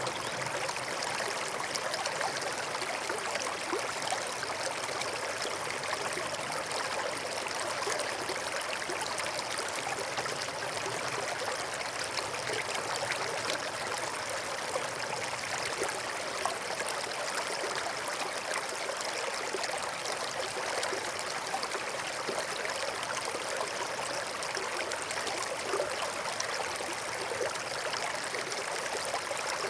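Forest stream flowing over rocks, a steady babbling and trickling of water.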